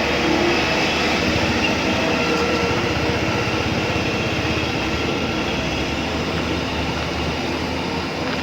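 Electric motors and gearboxes of a radio-controlled excavator and dump truck running, a steady mechanical whirring.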